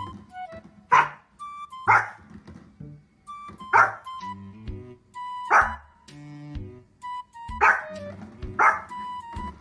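Small dog barking, six short sharp barks at uneven intervals, with music playing underneath.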